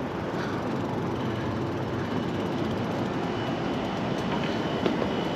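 E-bike being ridden: steady rolling and wind noise with a low hum, and a faint high whine from the electric motor that comes in about a second in.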